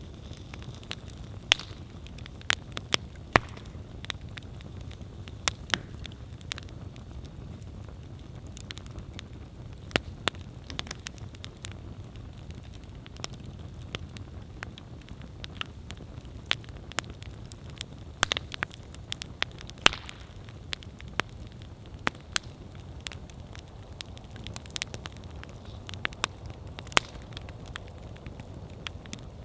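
Wood campfire burning, with a steady low rumble of flame and irregular sharp crackles and pops from the burning wood.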